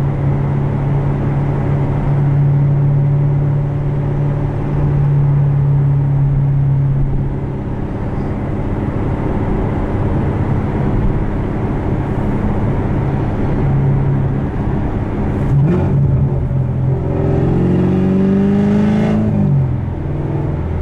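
Modified Corvette C7 Stingray's 6.2-litre V8, with headers, a performance cam and an unmuffled exhaust, droning steadily at highway cruise, heard from inside the cabin. Near the end the engine note climbs for a couple of seconds under throttle, then drops suddenly.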